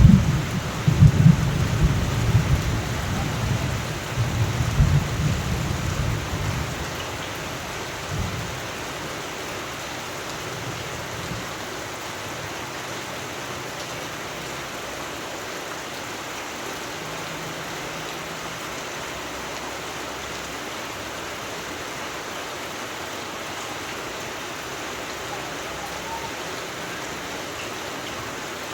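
Steady rain with a low rumble of thunder that dies away over the first several seconds, leaving only the rain.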